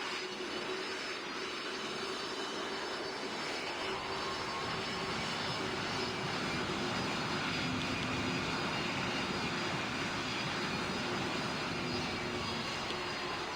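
Airbus A220's Pratt & Whitney geared turbofan engines running steadily: a continuous rushing jet noise with faint steady whines on top.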